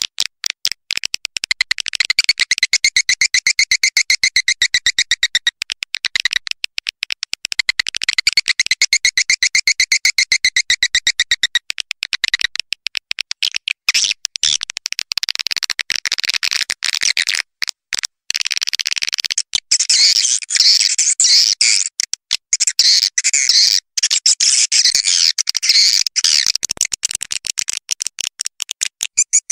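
Swiftlet calls from a swiftlet-house lure recording: a dense, unbroken run of rapid high chirps and clicks. The chatter changes pattern and grows brighter about halfway through.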